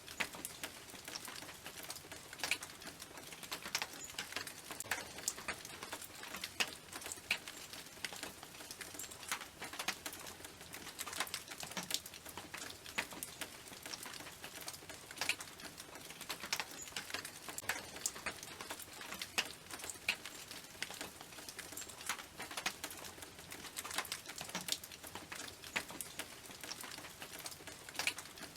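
Rain falling on a tin roof: individual drops tick sharply and irregularly on the metal over a steady hiss of rainfall.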